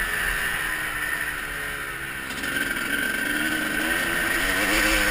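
Motocross bike engine coming off the throttle, its pitch falling, then picking up again about two seconds in and revving up and down as it accelerates.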